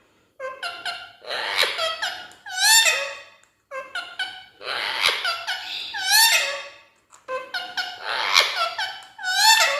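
Indian ringneck parrot chattering in high, squeaky, rapid syllables with quick rises and falls in pitch. It comes in three runs, with short pauses about a third and two-thirds of the way through.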